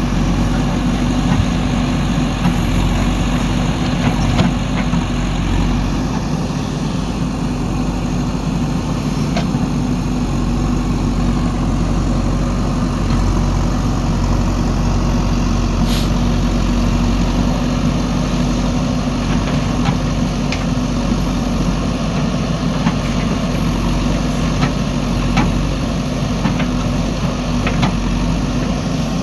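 Heavy diesel engines of a backhoe loader and dump truck running steadily during soil loading, with a few short, sharp knocks scattered through.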